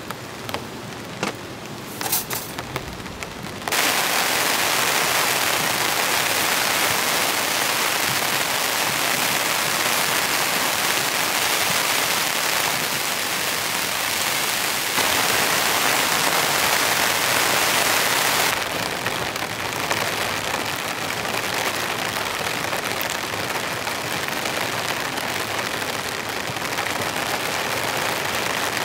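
Heavy rain falling steadily. The first few seconds hold only scattered taps of drops; about four seconds in the downpour starts abruptly and stays loud, easing only a little about two-thirds of the way through.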